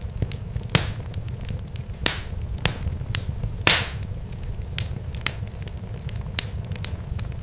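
Fire crackling: irregular sharp pops and snaps over a steady low rumble, a few louder pops trailing off in a brief hiss, the loudest about three and a half seconds in.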